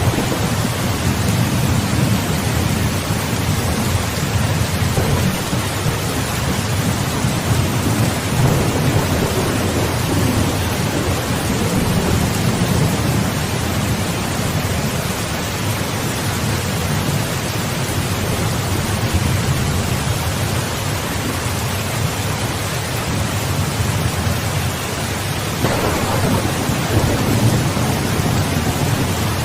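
Steady heavy rain with rolling thunder rumbling low underneath, the rumble swelling and easing over several seconds, with a new roll starting near the end.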